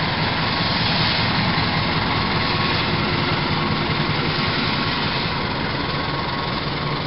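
Diesel locomotive running under power as it pulls a passenger train out and passes close by, followed by the steady noise of passenger coaches rolling past on the rails, easing off slowly toward the end.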